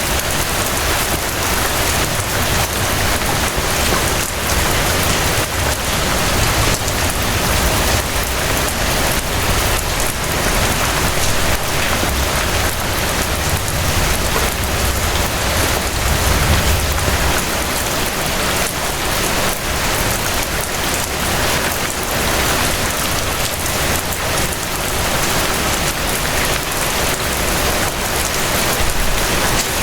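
Steady rain falling, an even continuous patter without letup.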